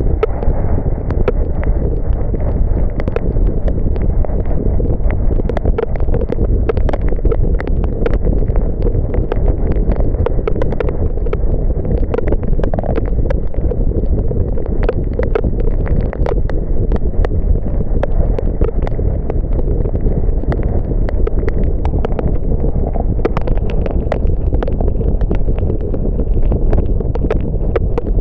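Steady low rumble of a car driving in the rain, with many small, irregular raindrop ticks hitting the car.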